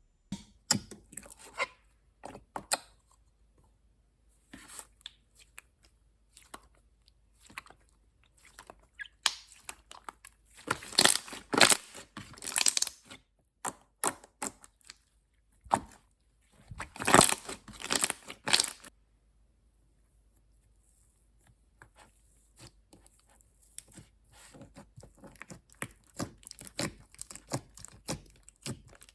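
Slime being squeezed, pressed and pulled by hand: irregular bursts of sticky crackling and popping, loudest in two spells about ten and seventeen seconds in, with a short pause around twenty seconds before quieter handling resumes.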